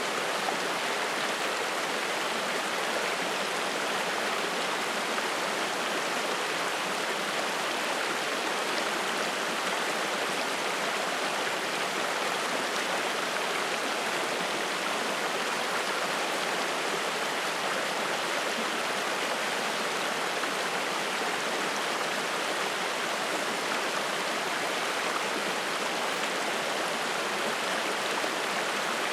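Spring-fed mountain stream flowing and splashing: a steady, even rush of water.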